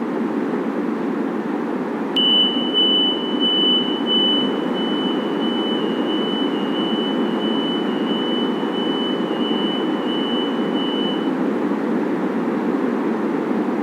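Steady running rumble of an LRT Line 1 1200-series light-rail train, with a high electronic warning tone beeping rapidly from about two seconds in until it cuts off about nine seconds later.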